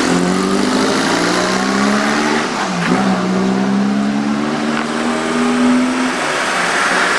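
Car engine accelerating, its pitch rising steadily, dropping once about three seconds in as at a gear change, then rising again before easing off near the end.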